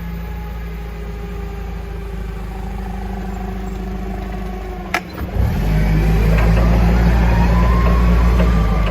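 Vehicle engine running steadily, then a sharp click about five seconds in, after which the engine gets louder as the vehicle accelerates, with a whine rising in pitch.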